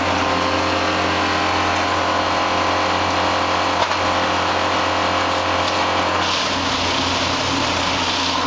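Engine of a railway track maintenance machine running steadily, with a single short click about four seconds in.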